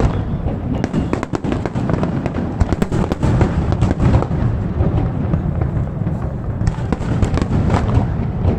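Fireworks display: a dense, continuous run of bangs and crackles over a heavy low rumble.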